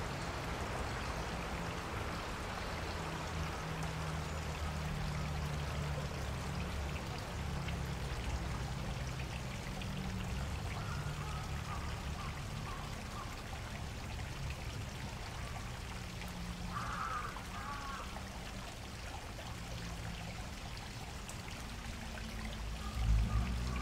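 Water running and splashing in a park stream, a steady rush. A brief higher-pitched call sounds about two-thirds of the way through, and there is a short low thump near the end.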